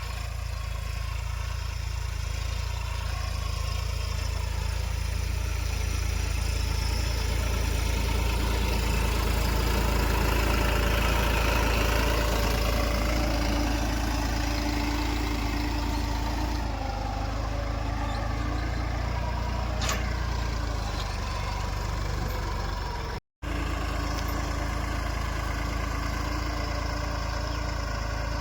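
New Holland tractor's diesel engine running steadily, a deep drone that rises a little in the middle, with a very short gap about three-quarters of the way through.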